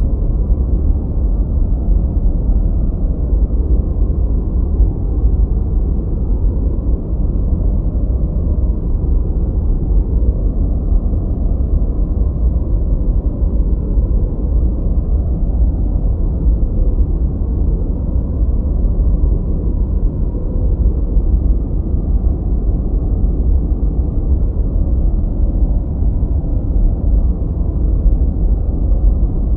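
Continuous masking noise: a steady, deep, muffled rush with almost no hiss at the top, more like brown noise than bright white noise.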